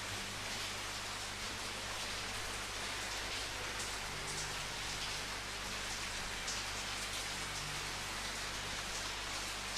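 Steady rain falling, an even dense hiss of drops, with a faint steady low hum beneath it.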